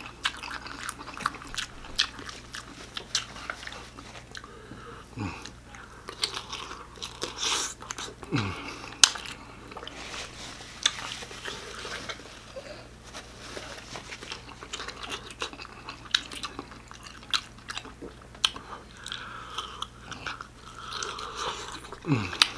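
Close-up mouth sounds of a person eating ramen noodles and bacon-wrapped sausage: chewing with irregular wet smacks and sharp clicks, the sharpest about nine seconds in.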